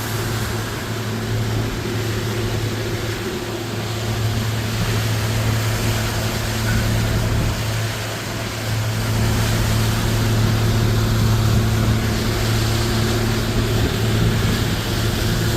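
Suzuki 250-horsepower four-stroke outboard motor running steadily under way, with the rush of water and wind over the hull, during the engine's initial break-in hours. It gets a little louder about nine seconds in.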